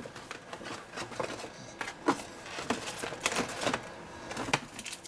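Packaging being handled during an unboxing: irregular rustles, scrapes and light clicks of paper, plastic and cardboard.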